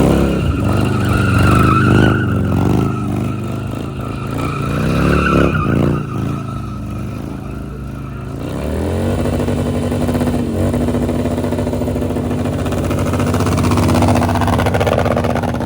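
Motorcycle engine revving up and down, then settling to a steady run about halfway through.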